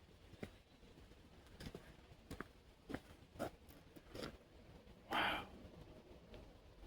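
Faint footsteps on a walking trail, each step a soft crunch about every half to two-thirds of a second. About five seconds in comes a louder, short breathy sound, like an exhale.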